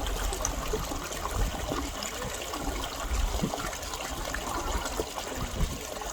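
Stream water flowing and trickling steadily, with a low rumble underneath.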